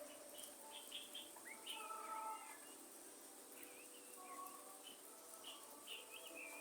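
Faint forest birdsong: scattered short, high chirps and quick warbled calls over a soft steady hiss.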